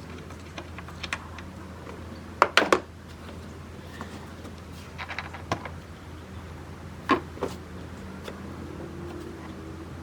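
Scattered clicks and knocks of parts and tools being handled, loudest in a quick cluster of knocks a couple of seconds in and another single knock about seven seconds in, over a steady low hum.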